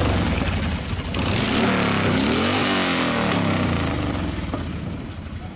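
Motorcycle engine revving, its pitch sweeping down and up a few times, then fading away over the last second or so.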